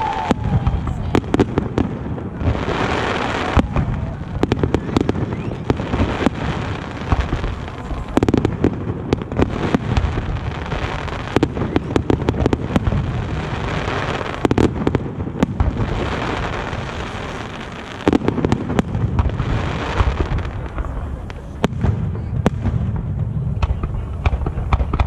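Aerial fireworks shells bursting in quick succession: many sharp bangs over a constant low rumble. Several spells of higher, hissing crackle come through, near the start, around three seconds in, and again at about fourteen and twenty seconds.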